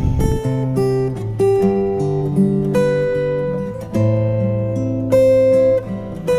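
Background music: acoustic guitar plucking and strumming chords at an unhurried pace.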